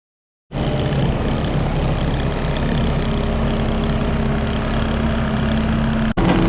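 JCB Teleskid skid steer's diesel engine running steadily, with a constant hum. It starts abruptly about half a second in and drops out for an instant near the end.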